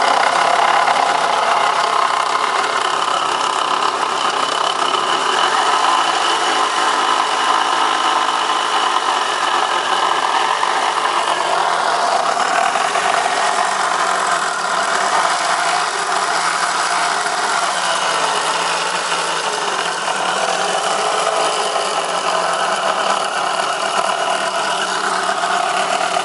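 Renault Mégane engine running steadily without revving; the owner says it is running badly.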